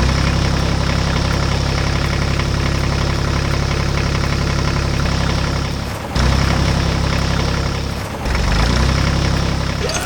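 Heavy-machinery engine running with a fast knocking rattle, as of a loader's engine. It dips briefly about six seconds in and again near eight seconds, then picks up again.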